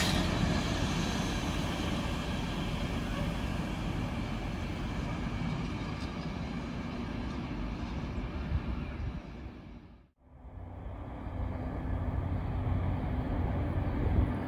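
Empty container flat wagons of a freight train rolling past on the rails, a steady rumble that slowly fades as the train's end moves away. After a brief fade to silence about ten seconds in, a second train is heard approaching in the distance, its low rumble building toward the end.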